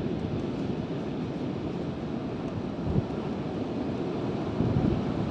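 Wind rumbling on the microphone over a steady wash of surf, with a few brief low thumps from gusts.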